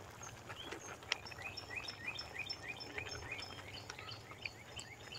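A bird singing: a quick run of short rising chirps, several a second, over faint background noise, with a single sharp click about a second in.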